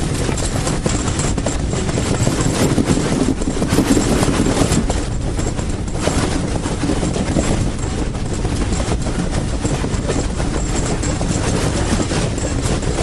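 Steam-hauled heritage train running on the rails, a steady rumble heaviest in the low range.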